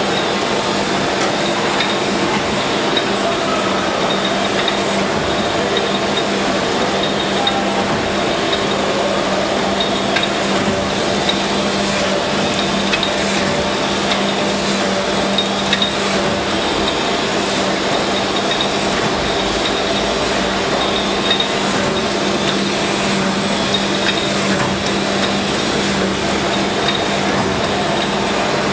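Snow double column surface grinder running: a steady hum under a constant hiss, with a few sharp metallic clinks.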